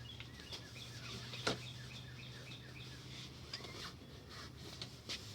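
A small bird chirps in a quick run of short, high notes through the first half, over a steady low hum and a faint hiss of rain. A single sharp tap about a second and a half in is the loudest sound.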